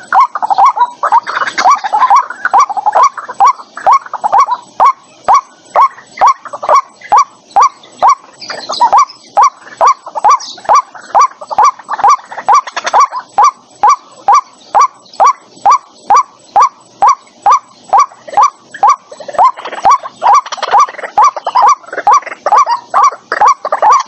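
White-breasted waterhen calling: a steady run of short, hooked notes, about two a second. The calls are denser and harsher, overlapping, in the first few seconds and again from about four seconds before the end.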